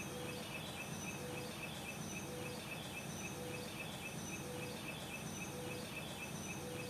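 Faint outdoor ambience: a steady hiss with a short call repeating about once a second over a fast, even, high-pitched pulsing.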